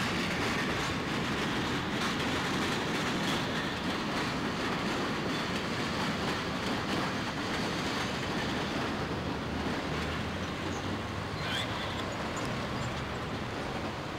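Railroad cars rolling past with a steady rumble and faint clacking of wheels over rail joints, a brief high wheel squeak about eleven seconds in.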